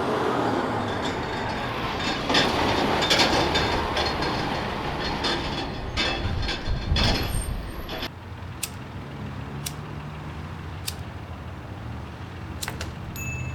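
A vehicle passing: a loud rushing noise with many sharp clicks that dies down about eight seconds in, leaving a low steady hum and the odd click.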